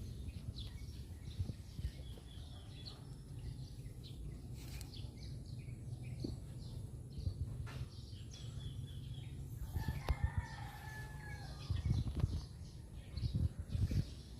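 Outdoor birdsong: scattered short chirps over a steady low rumble, with a longer call that glides down in pitch about ten seconds in.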